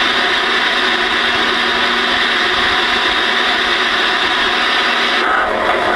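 Ranger RHF-618 ten-meter radio receiving on an open channel: steady, loud static hiss from its speaker. The hiss turns duller about five seconds in as a signal starts to come in.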